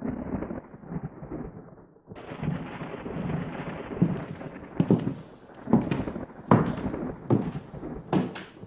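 Low rumbling noise that changes abruptly about two seconds in, then a run of heavy thuds roughly one a second through the second half.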